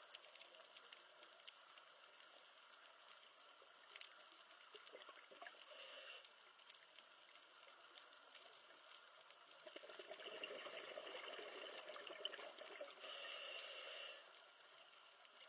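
Faint running water with scattered small drips and ticks. It grows a little louder about ten seconds in, then drops back near the end.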